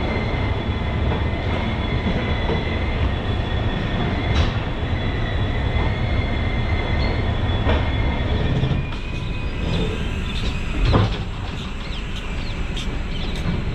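Shatabdi Express passenger train pulling slowly out of a station, heard from an open coach door: a steady rumble with a faint thin wheel squeal and a few sharp knocks, the loudest about eleven seconds in.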